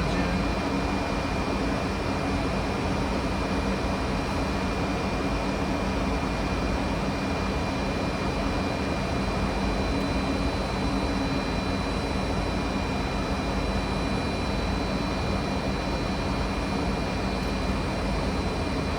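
Steady cabin noise of a Fokker 100 flight deck in flight: a continuous rush of airflow and engine noise with a low hum and faint steady high tones.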